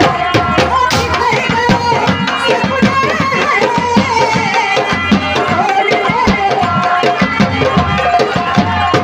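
Live Indian folk music: a hand drum such as a dholak or tabla playing a fast, busy rhythm under a melody.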